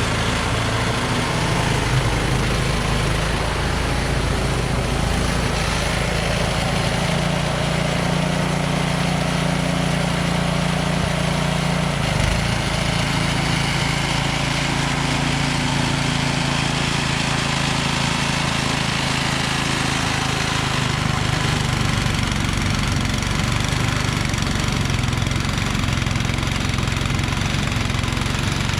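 Engine of a snow-clearing machine running steadily at an even speed, its pitch shifting slightly now and then.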